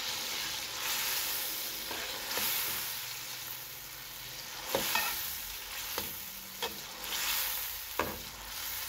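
Tomato-and-onion masala sizzling in oil in a metal kadai while a perforated metal skimmer spoon stirs it. The spoon scrapes and clicks against the pan several times, sharpest about five and eight seconds in.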